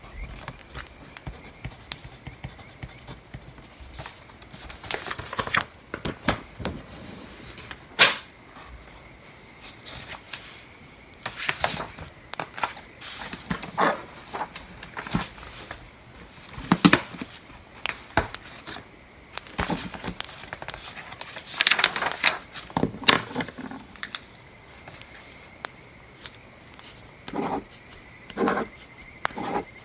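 Bonfire crackling: irregular snaps and small pops with busier patches of crackle, and a couple of sharper, louder pops.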